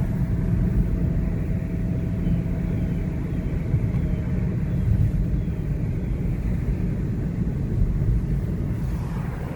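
A car driving along a road, its engine and tyres making a steady low rumble.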